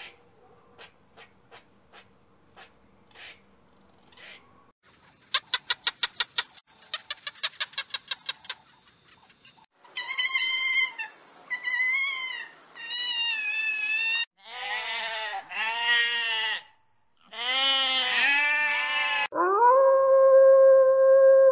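A sequence of different animal sounds. First come faint scattered ticks, then two rapid rattling pulse trains, then a series of short pitched cries that rise and fall. Near the end there is one long held call.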